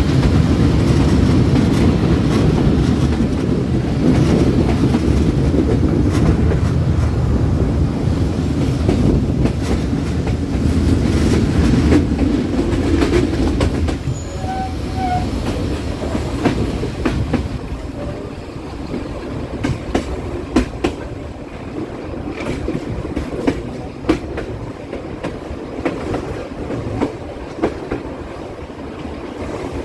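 Passenger train running along the track, its wheels rumbling and clicking over the rails. About halfway through the rumble eases and sharp, separate clicks stand out more.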